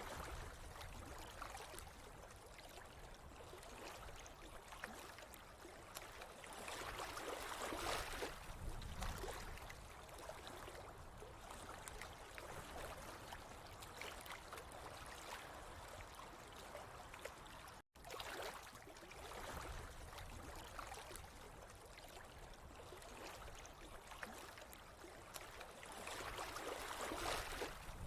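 Running water trickling and gurgling steadily, swelling a little now and then, with a split-second dropout about eighteen seconds in.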